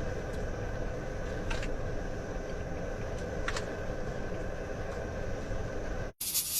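Steady low rumbling of strong wind buffeting a small camper van, heard from inside, with two faint clicks. Near the end it cuts off abruptly and is replaced by a brighter hiss.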